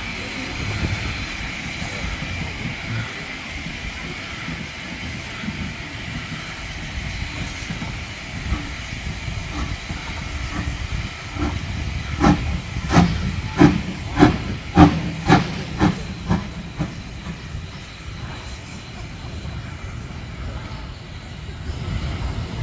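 Steam railway sound from BR Standard Class 4 locomotive 75014: a steady hiss and rumble, with a run of about seven sharp exhaust beats about half a second apart midway through.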